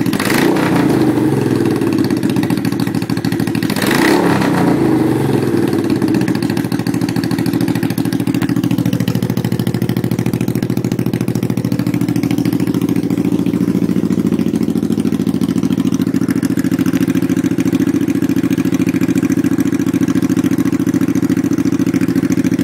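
1983 Honda Shadow VT750C's V-twin engine running open, with the stock mufflers removed. It is blipped twice, near the start and about four seconds in, each rev falling back, then settles into a steady idle.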